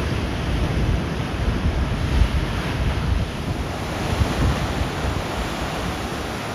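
Atlantic surf washing on the shore, with wind buffeting the microphone in a low, gusty rumble.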